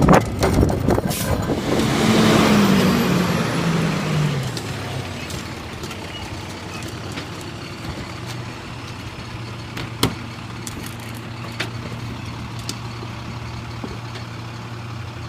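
Garbage truck's diesel engine revving, then its pitch falling over a couple of seconds to a steady idle. There is a hiss early on and occasional sharp knocks.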